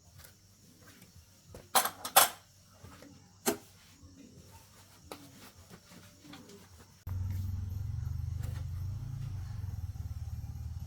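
A few sharp metallic knocks, then about seven seconds in a tractor engine suddenly starts running at a steady, low, pulsing idle.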